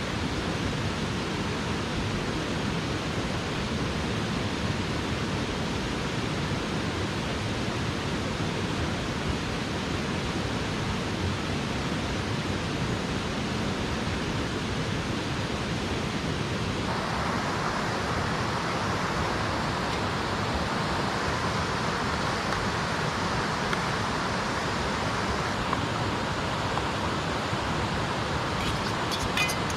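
Rushing water of a small mountain stream, a steady hiss; about halfway through it grows fuller and brighter. A few faint clicks near the end.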